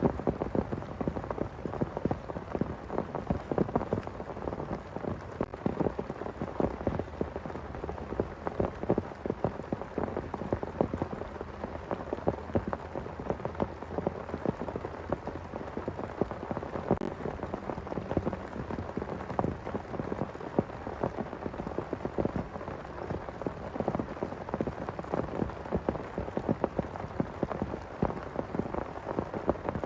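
Heavy rain falling steadily, a dense, irregular patter of drops striking a surface.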